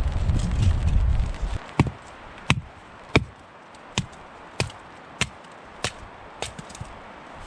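A tool chopping wood: about nine sharp blows at an even pace of roughly one and a half a second, getting lighter toward the end. A low rumble of wind on the microphone fills the first second and a half.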